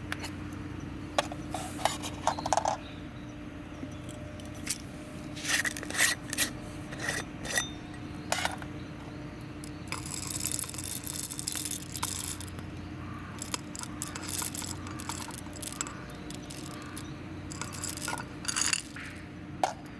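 Irregular clinks, clicks and short scrapes of hard objects, like cookware or utensils being handled, over a steady low hum.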